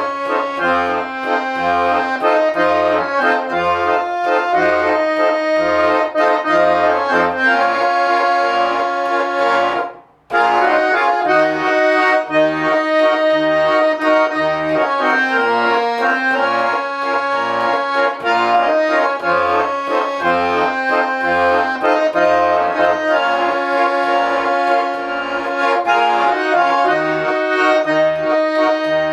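Garmon (Russian button accordion) playing a melody in the right hand over an even, pulsing bass-and-chord accompaniment. There is a brief break of about a third of a second, roughly ten seconds in.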